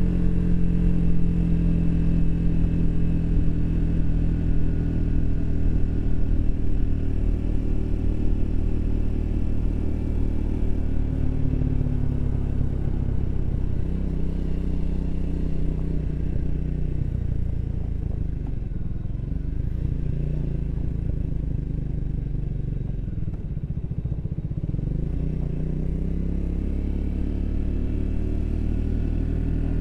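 Triumph Speed 400's single-cylinder engine running at steady revs under way. Then the revs fall off about halfway through and dip low twice before rising again near the end.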